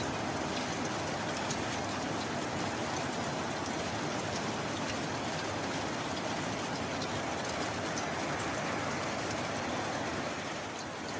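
Steady, heavy rain: a dense even hiss with many small drop ticks scattered through it, easing slightly for a moment near the end.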